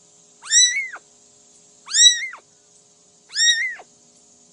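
A cat meowing three times, evenly spaced about a second and a half apart, each meow rising and then falling in pitch.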